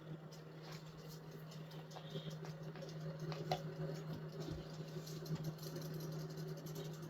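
Small motorised swimming fish toys running in a bucket of water: a steady low buzzing hum, with faint scattered ticks and light patters and one sharper click about three and a half seconds in.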